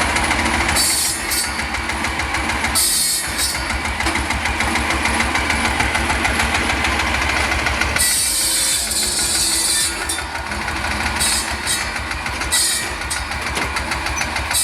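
Old 1957 tractor engine running with an even low pulse, driving a tractor-mounted saw bench; several bursts of high hissing noise, the longest from about 8 to 10 s in, as the blade cuts into wood.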